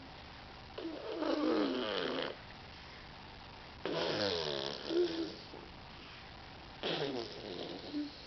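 A young child making silly vocal noises: three drawn-out voiced noises, each a second or so long and falling in pitch, with short pauses between them.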